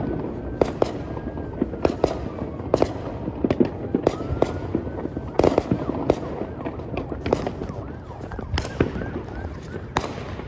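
Many fireworks going off around the area: irregular sharp bangs and crackles, several a second at times, over a constant rumble of more distant bursts, with a few faint whistles early on.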